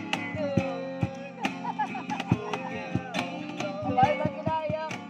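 Acoustic guitar strummed in a steady rhythm, with a wavering melody line running over the chords.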